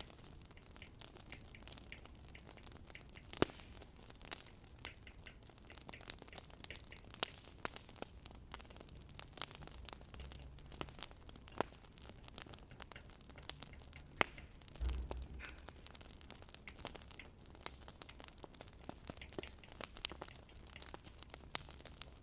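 Wood fire crackling: irregular sharp pops and snaps over a faint hiss, with one louder pop about three and a half seconds in and a low dull thud near fifteen seconds.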